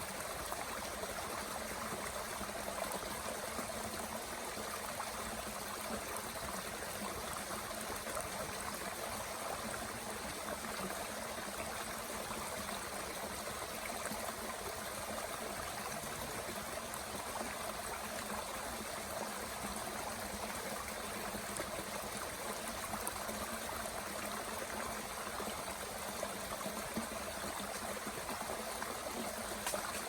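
A mountain stream running steadily, an even rush of flowing water.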